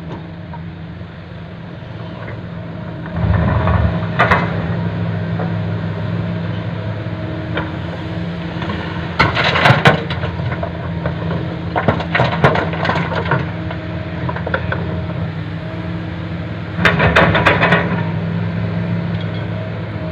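Heavy diesel engine running steadily, getting louder about three seconds in, while loads of padas stone crash and clatter into a steel dump bed four times.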